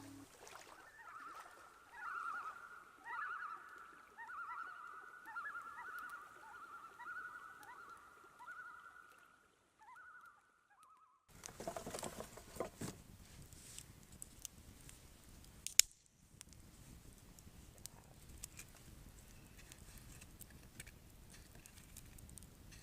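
A bird's long pulsing call, held on one pitch for about ten seconds before it breaks off. After it comes faint background noise with scattered clicks and one sharp click.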